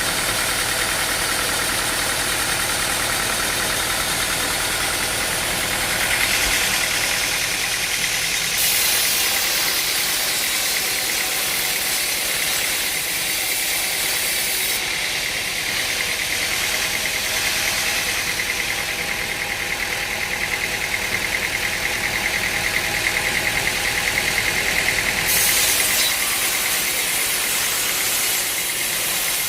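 Engine-driven machinery running steadily with a rough, knocking engine note, under a hiss that steps abruptly louder and quieter several times.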